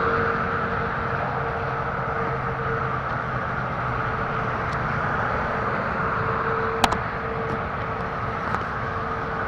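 A motorcycle engine running at a steady speed under a constant rushing noise, its low hum easing off slightly over the first few seconds, with one sharp click about seven seconds in.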